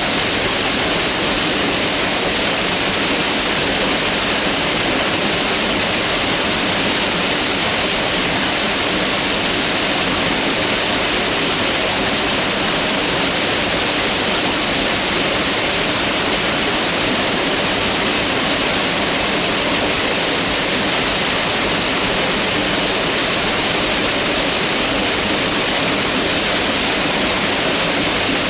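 Mountain river rushing over rocks, a steady, loud even wash of water noise.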